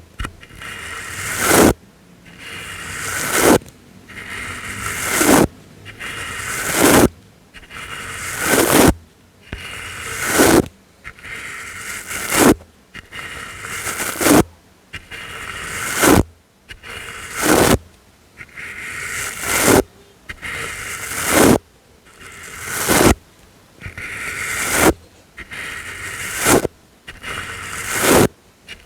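ASMR brush strokes: a swishing brush stroke about every second and three quarters, each one building up and then stopping abruptly, in a steady repeating rhythm.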